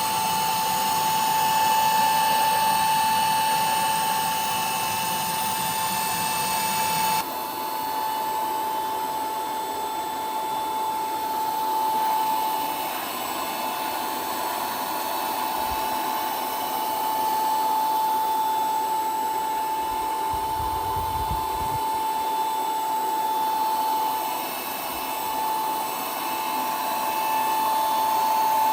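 A power tool running steadily with a high whine over a noisy hiss. The sound changes abruptly about seven seconds in.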